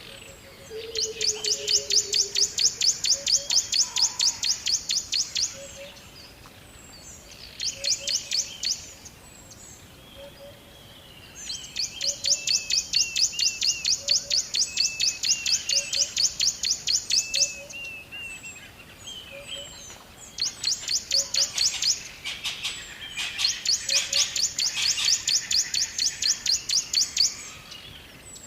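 Birds singing: long rapid trills of high chirps, each several seconds long, in four main runs, with quieter chirps and short lower calls in the gaps.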